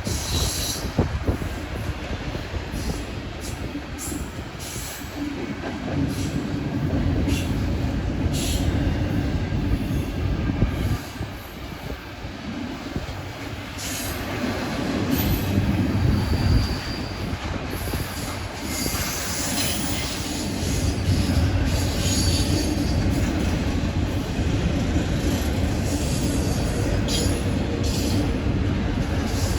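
Intermodal freight train cars rolling past: a steady rumble of steel wheels on rail, with scattered clicks and brief wheel squeals, one high squeal about fifteen seconds in.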